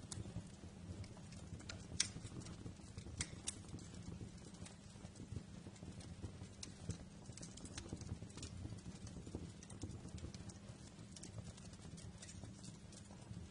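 Wood fire crackling: irregular sharp pops and snaps over a low, steady rumble of the flames, with the loudest pop about two seconds in.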